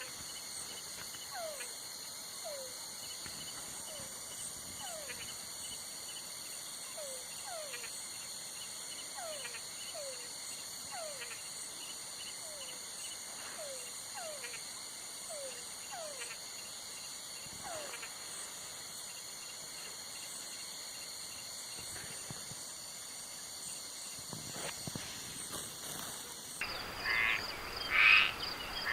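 Night insect chorus, a steady high-pitched chirring of crickets, with a series of short falling calls repeating about once a second through the first two-thirds. Near the end it changes abruptly to loud frog croaking in a few pulsed bursts.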